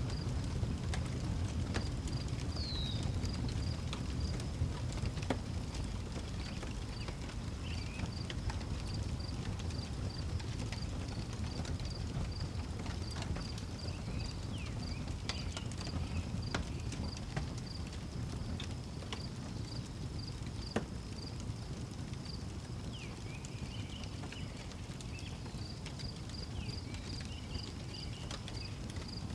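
Outdoor wood fire crackling, with scattered sharp pops over a low steady rumble. A cricket chirps at an even, steady pace, and a few short bird calls come through now and then.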